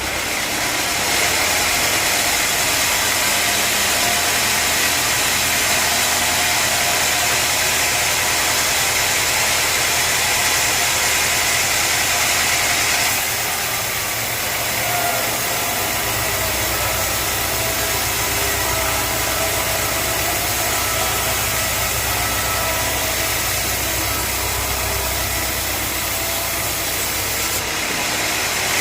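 A sawmill running steadily, engine and saw noise together, with no breaks. About halfway through the higher sound eases off and a lower rumble comes up.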